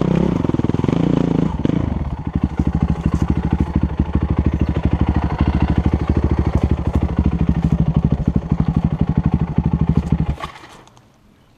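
Husqvarna dirt bike engine running harder for the first couple of seconds, then settling into a slow, even chugging at low revs. Near the end the sound fades quickly away.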